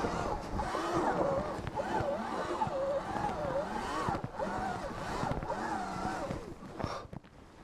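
Sur-Ron electric dirt bike's motor whining, its pitch rising and falling with the throttle as it pushes through deep snow. It dies away about seven seconds in.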